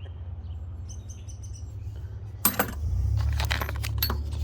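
Small metal tools and bits clinking together as they are handled, a run of sharp clicks in the second half. Birds chirp about a second in, over a steady low hum.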